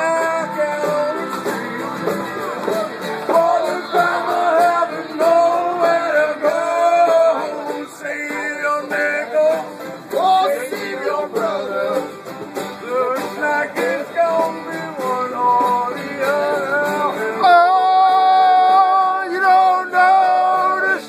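An acoustic string band playing a country/bluegrass-style tune with singing. About 17 seconds in it moves to louder, held notes.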